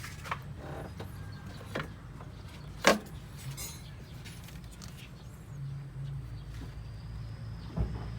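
A car engine idling steadily, with a few sharp clicks and knocks over it, the loudest about three seconds in.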